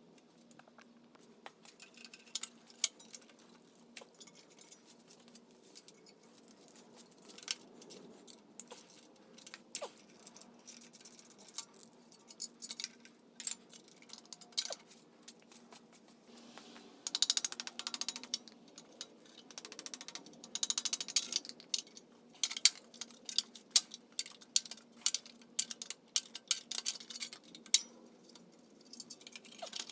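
Hand tools and metal parts of a Volkswagen 1600 engine clinking, rattling and scraping during disassembly, in irregular clicks and knocks with denser bursts of rattling and scraping about halfway through. A faint steady hum runs underneath.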